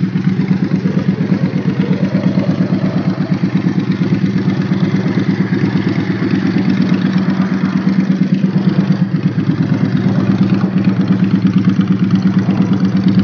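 Yamaha V Star 650's air-cooled V-twin idling through a custom exhaust, a steady, even pulse.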